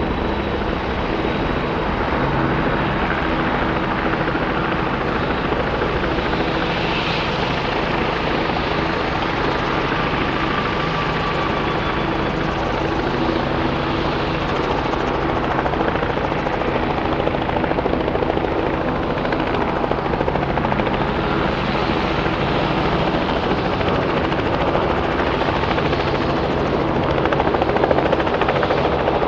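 Helicopter running close by: steady rotor and engine noise with a constant low hum, growing a little louder near the end.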